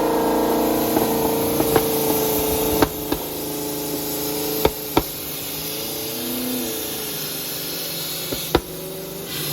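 Car engine held at high revs, a steady drone whose pitch slowly sags, with a brief rise and fall in the middle, broken by several sharp cracks. The car's transmission has a hole in it and is leaking fluid.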